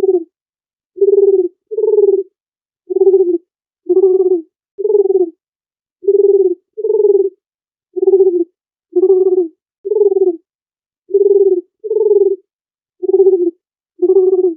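Dove cooing: a steady run of short, low coos, about one a second, with clean silence between them.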